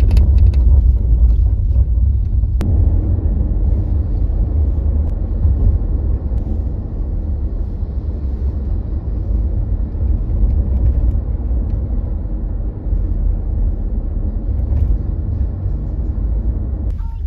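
Steady low road rumble inside a moving car, with no speech over it.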